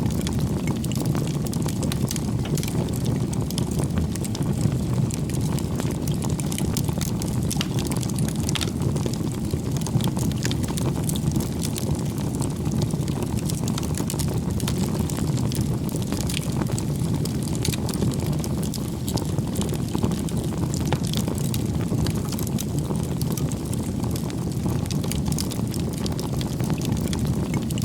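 Wood campfire burning: a steady low rumble of flames with frequent sharp crackles and pops from the burning firewood.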